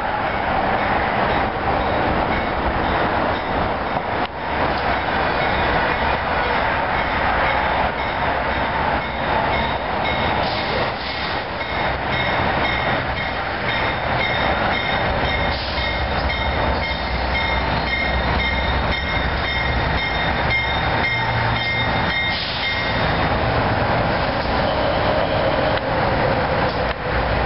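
Amtrak passenger train with a diesel locomotive pulling into the station: a loud steady rumble of engine and wheels on rail. A thin, high steady squeal comes in about ten seconds in and stops about twenty-three seconds in, as the brakes slow the train.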